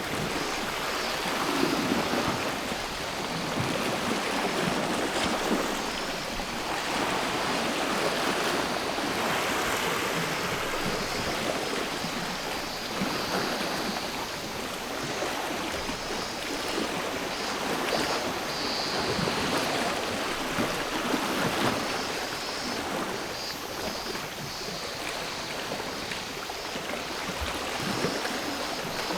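Sea waves washing onto the shore, swelling and easing every few seconds, with cicadas shrilling in a steady high band behind them.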